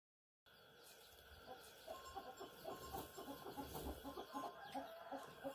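Chickens clucking: many short calls in quick succession, cutting in suddenly about half a second in.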